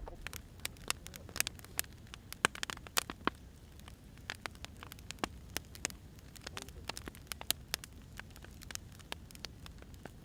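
Burning firewood crackling: a dense run of irregular sharp pops and snaps over a low steady rumble.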